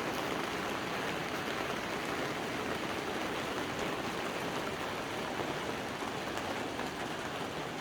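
Steady rain falling, a dense, even patter that holds at one level throughout.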